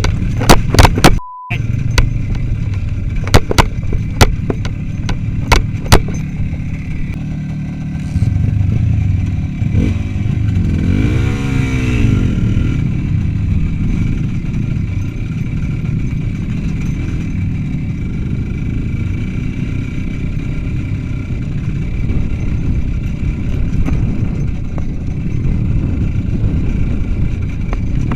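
Motorcycle engine running under way, with a steady low drone and several sharp knocks and clatters in the first few seconds. About ten seconds in, an engine's pitch rises and falls once.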